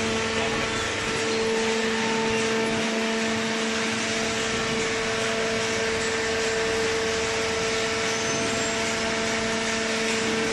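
Industrial cardboard shredding and baling machine running steadily: a constant motor hum over an even machine noise.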